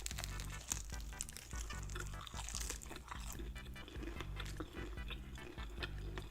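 Close-up crunching and chewing of fried chicken: the crisp breading crackles again and again as it is bitten and chewed.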